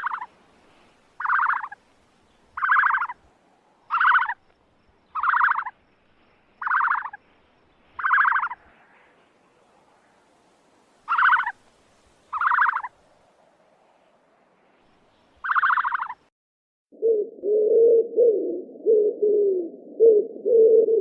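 An animal's call repeated about ten times, each short and fairly high-pitched, then, from about three-quarters of the way in, a continuous low cooing of pigeons or doves.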